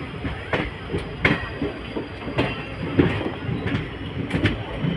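Passenger train running on rails: a steady rumble with irregular sharp clacks and knocks from the wheels and carriage.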